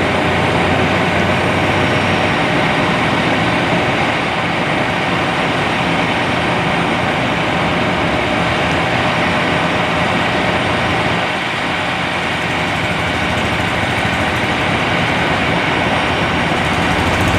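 Heavy vehicle engine idling steadily, a continuous noisy hum with no break.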